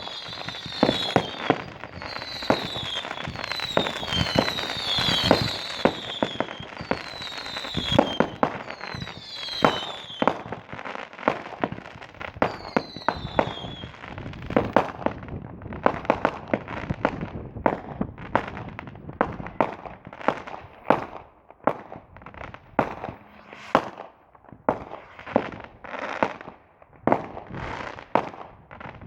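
Fireworks going off: a dense run of bangs with short, falling whistles repeating about once a second in the first half, then separate, well-spaced bangs.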